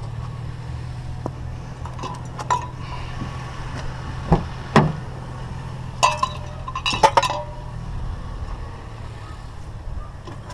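Scrap metal pieces being handled, with scattered sharp metallic clinks and knocks, a few of them ringing briefly, over the steady low hum of an idling vehicle engine.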